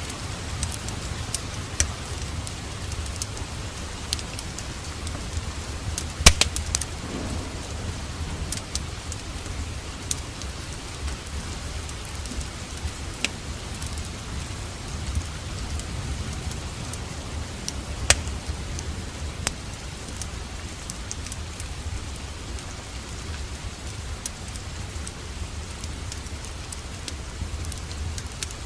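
Steady rain with a low rumble underneath, and a wood fire crackling: scattered sharp pops, the loudest about six seconds in and another about eighteen seconds in.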